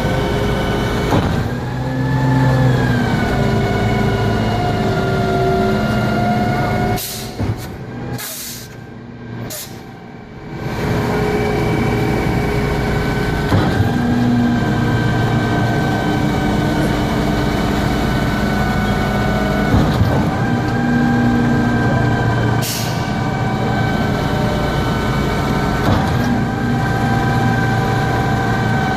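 Concrete pump truck's diesel engine running steadily under load. Its pitch bends briefly about two seconds in, it drops away for a few seconds about a third of the way through, and there are short hissing strokes.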